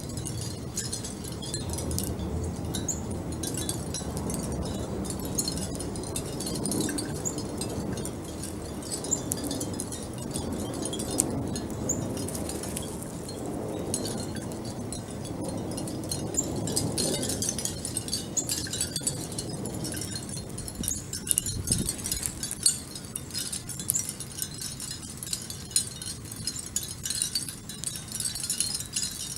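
Scattered light, high chime-like tinkling over a steady low background rumble.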